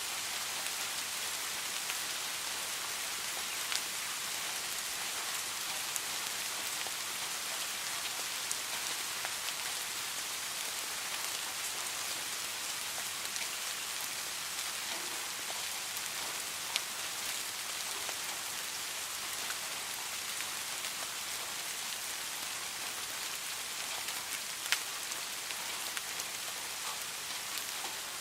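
Steady rain falling on a surface: an even hiss, with a few louder single ticks standing out now and then.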